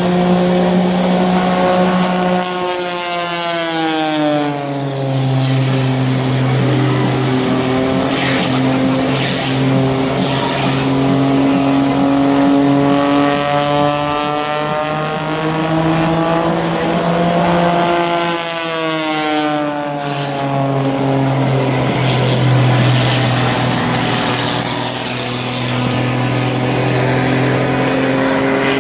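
Piston-engine propeller airplane running at a steady drone. The pitch drops sharply twice, a few seconds in and again about two-thirds through, as it passes by.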